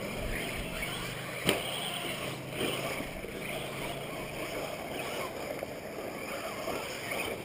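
Radio-controlled race cars running on a dirt track, their motors whining up and down over a steady hiss. There is one sharp knock about one and a half seconds in.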